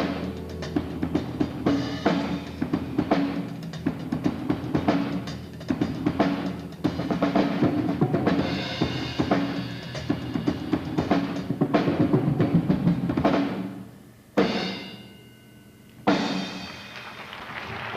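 A trio playing, led by a drum kit: rapid drum hits and rolls over a steady pitched backing. Near the end come two loud accented hits, each left to ring out and fade.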